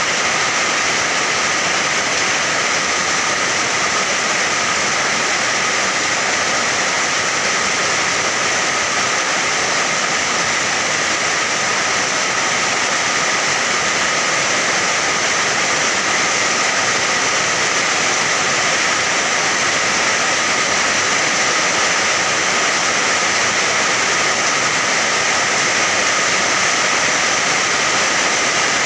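Steady, unbroken rain noise: an even hiss.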